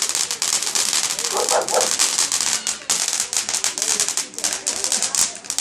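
Fireworks crackling, a dense, unbroken run of sharp pops. A short pitched call sounds over it about a second and a half in.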